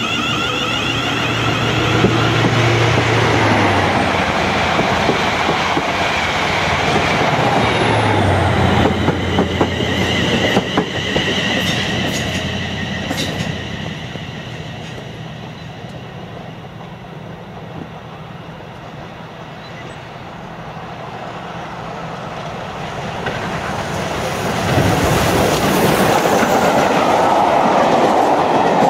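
Electric trains passing on an electrified main line: first a whine, then wheels clicking over points and rail joints. Near the end a train of coaches passes close by, a louder steady rumble.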